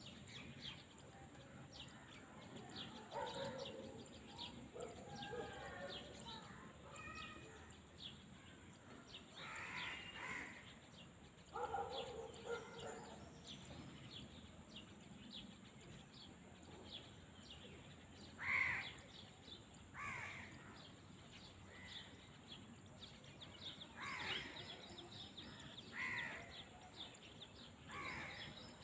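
Field ambience of birds calling: short harsh caw-like calls come every few seconds, some in quick groups, over a faint background of small chirps.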